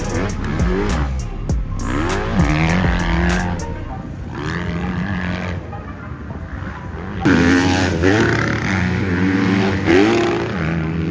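Motocross dirt bike engines revving hard on the track, the pitch climbing and dropping again and again as they run up through the gears and roll off. A louder burst of engine noise starts about seven seconds in.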